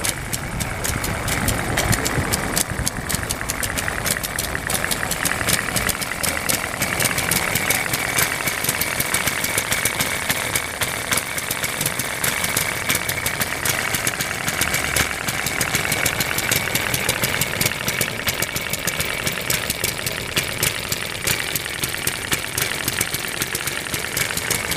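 Engine running steadily, with a fast, even clatter of firing strokes and a steady high whine over it.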